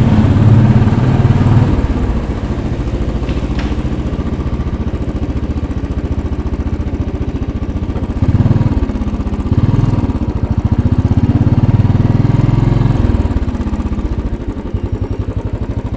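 Single-cylinder engine of a 2010 Royal Enfield Bullet 500 running with a steady, even beat at low revs, then opened up in several louder swells from about halfway through.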